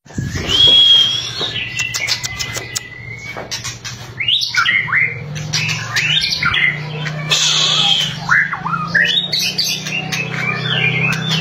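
White-rumped shama (murai batu) singing its varied song: a clear whistle, a long held note, a quick run of dry clicking rattles (the 'kretekan'), then a string of fast rising and falling phrases. A steady low hum lies underneath.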